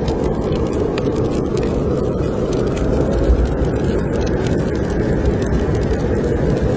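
Snowstorm wind blowing steadily and loudly, with a wood fire in a fireplace crackling in scattered small pops over it.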